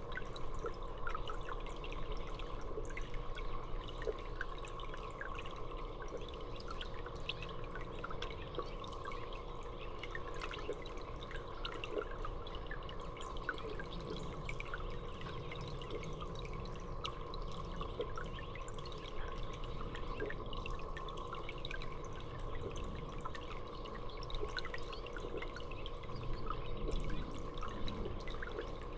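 Water dripping and trickling steadily, many small drops, over a steady hum.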